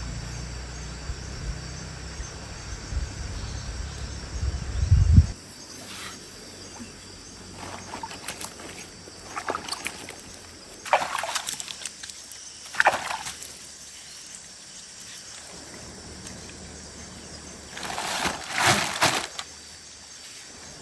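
Water splashing and sloshing in several short bursts, over a faint steady hiss. A low rumble cuts off abruptly about five seconds in, and the loudest splashing comes near the end.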